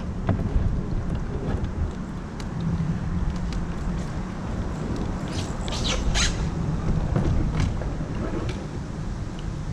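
Wind buffeting the microphone: a steady low rumble that rises and falls in gusts. A short cluster of sharp clicks comes about six seconds in.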